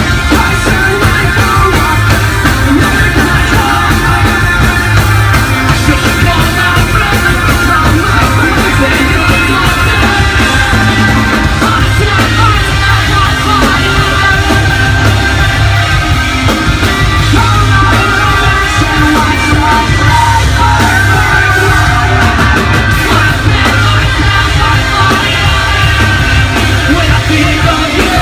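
A rock band playing a song live and loud, with bass and drums under a singer who sings and yells.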